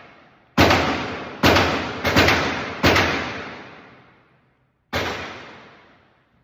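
Gunshots: five shots within about two and a half seconds, two of them almost together, then a sixth about two seconds later. Each shot rings on for a second or more.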